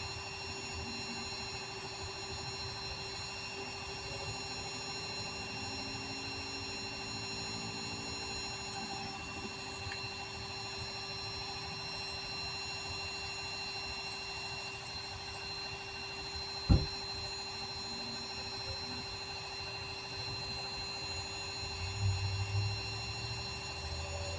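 A vehicle engine idling steadily, a constant hum with a thin high whine over it. A single sharp knock about 17 seconds in, and some low rumbling near the end.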